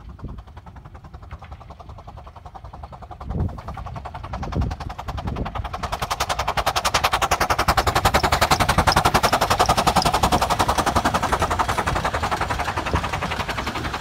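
A 15-inch gauge miniature railway train approaching and passing. It makes a rapid, even beating that grows louder from about the middle, peaks, then eases off toward the end.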